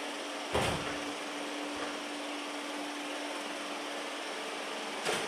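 Robot vacuum running with a steady hum and a steady tone, with two short knocks, about half a second in and again near the end.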